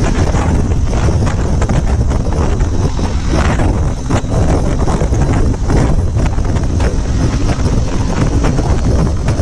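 Heavy wind buffeting the microphone of a camera on a moving motorcycle, a loud, steady rumble that holds throughout.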